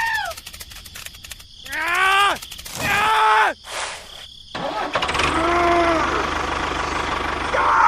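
Small engine cranked with falling, whirring sweeps, then catching and running steadily from about five seconds in.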